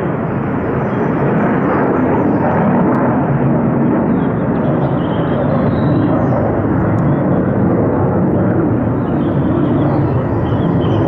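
A US military fighter jet taking off: a loud, steady jet-engine roar that fills the air, holding level without a break.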